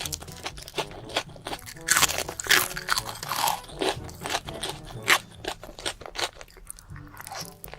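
Close-up crunching of crisp food being bitten and chewed, in quick irregular crackles throughout.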